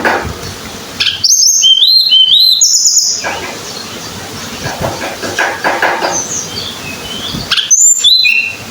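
Tledekan gunung songbird singing: a loud run of high, rising-and-falling whistled notes about a second in, lasting some two seconds, and a shorter burst near the end, with quieter chirps between.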